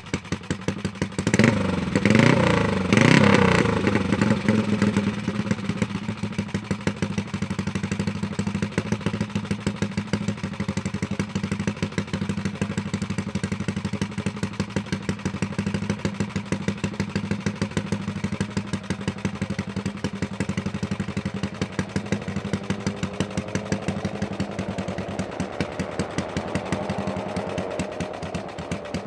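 Classic Ducati racing motorcycle engine warming up: a few quick throttle blips about a second in, then a steady, even idle. Near the end a fainter engine note rises gradually in pitch underneath the idle.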